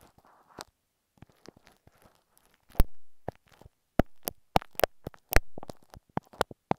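Glue stick worked directly against an earphone microphone, giving sticky, irregular clicks and crackles. One sharp click comes about three seconds in, and a dense run of clicks follows between four and five and a half seconds in.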